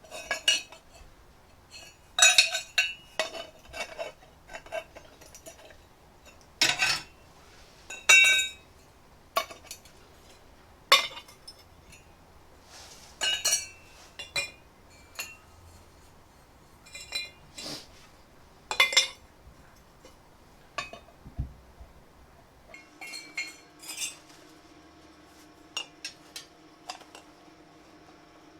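Cut lengths of steel exhaust pipe clinking and knocking together as they are handled and laid out, in irregular sharp metallic knocks with a short ring after each. A steady hum with a few even tones starts near the end.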